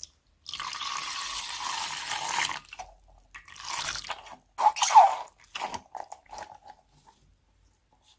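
Slime squished and squeezed by hand, making wet crackling squelches: one long squelch, then several shorter ones, the loudest about five seconds in, ending in a few small pops.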